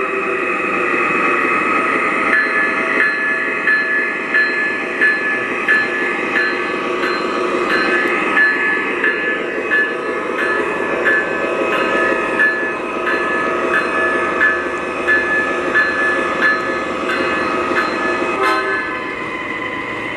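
MTH Premier ES44AC O-gauge model diesel locomotive's onboard sound system running its diesel engine sound, with the locomotive bell ringing just under twice a second from about two seconds in until near the end.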